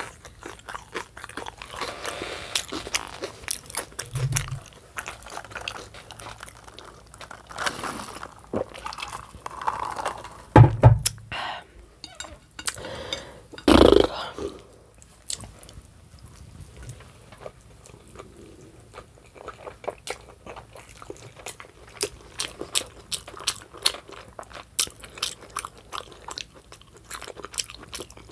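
Close-miked chewing and biting of a baked stuffed bell pepper: steady wet mouth clicks and crunching of the pepper flesh. A few louder knocks come about 4, 11 and 14 seconds in.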